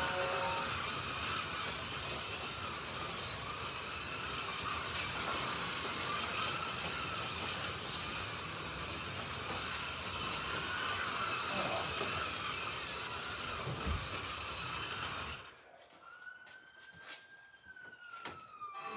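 Several Slot.it 1/32 slot cars running flat out round the track: a steady whine of small electric motors and gears, wavering as the cars speed up and slow down. About fifteen seconds in, it cuts off suddenly as the heat ends. A smooth electronic tone from the race system follows, rising a little and then falling.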